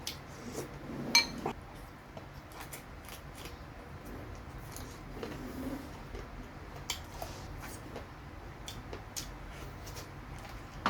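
Close-up eating sounds: scattered small clicks and taps of utensils on a dish, the sharpest about a second in, with soft chewing of fried chicken and rice in between.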